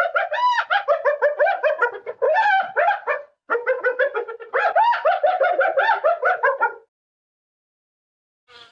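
A dog yipping in quick, repeated calls, several a second, with a short break partway through. The calls stop about two seconds before the end, and a brief faint sound follows.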